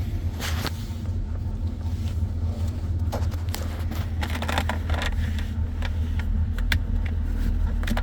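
A 2006 GMC pickup's engine idling steadily, with scattered light clicks over it.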